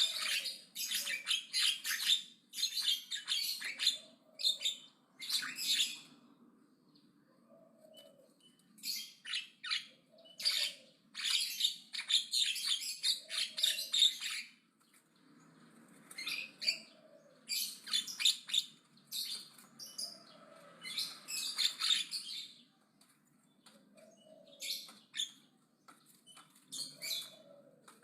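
Javan myna singing loudly in rapid, scratchy chattering phrases of one to a few seconds, broken by short pauses.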